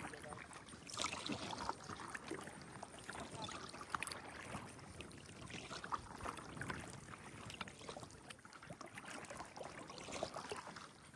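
Kayak paddle strokes, the blades dipping into the water again and again with splashing and dripping water.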